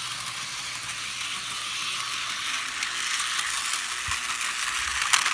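HO scale Thomas the Tank Engine model locomotive running along the track, its motor and wheels making a steady whirring hiss that grows louder as it comes closer, with a few sharp clicks near the end.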